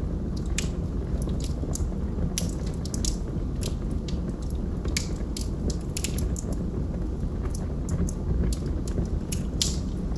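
Wood fire burning in a fireplace: irregular crackles and sharp pops, several a second at times, over a steady low rumble.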